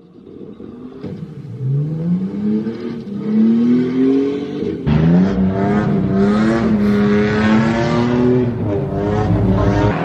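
A Toyota AE86's BEAMS 3S-GE four-cylinder engine revving hard under acceleration, its pitch climbing, dropping suddenly about five seconds in, then climbing again and holding high.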